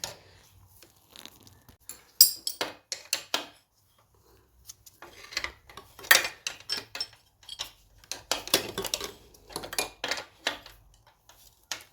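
Hand tools clinking and clicking on a steel nut and bracket as a nut is worked loose, in several short bursts of metal clinks with quiet gaps between them.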